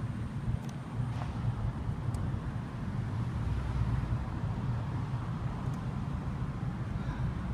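Honda CB1300SA's 1284 cc inline-four engine idling steadily.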